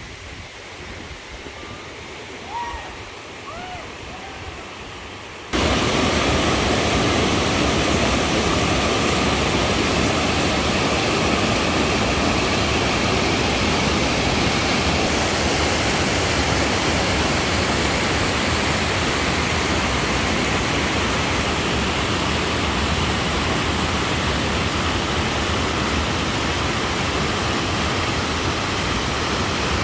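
Rushing water of a forest waterfall: a quieter rush with a few brief chirps, then a sudden jump about five seconds in to a loud, steady roar of falling water.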